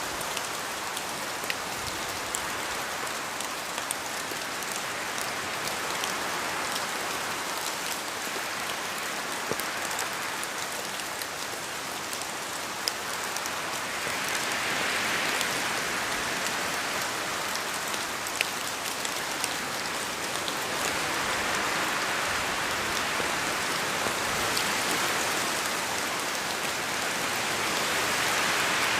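Steady rain falling, with scattered single drop ticks. It swells louder a few times, about halfway through and again near the end.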